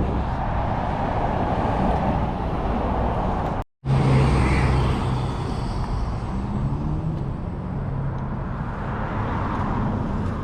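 Car engines running with steady traffic-like noise. The sound cuts out for a moment about four seconds in, then a low, steady engine hum carries on.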